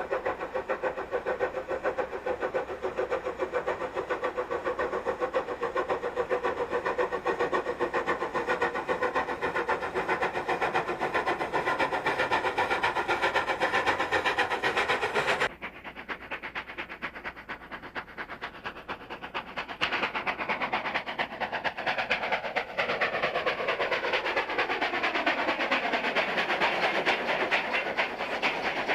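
Steam train running on the track, with a sudden change about halfway through; in the later part a set of tones slowly falls in pitch.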